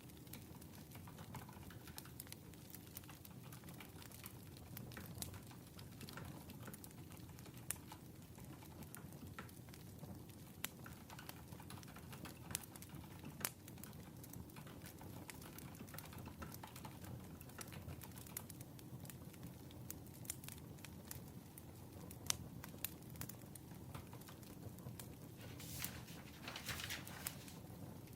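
Crackling wood fire: a low steady rumble with irregular sharp pops and snaps from the burning logs. A brief rustle comes near the end.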